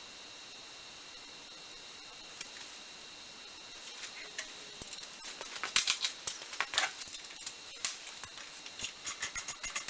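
Metal parts and hand tools clinking and tapping while a lathe gearbox is taken apart. After a few quiet seconds the clicks come irregularly, then thicken into a quick run of clicks near the end.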